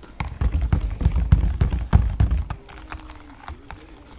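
Soap batter being hand-stirred in a container, the utensil knocking against the sides in a quick run of taps and dull thuds, thinning out to a few light taps after about two and a half seconds.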